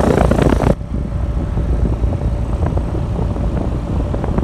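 2022 Trane XR14 3.5-ton heat pump's outdoor unit running in cooling mode: a steady low compressor and condenser-fan hum. A loud rush of air noise cuts off suddenly under a second in.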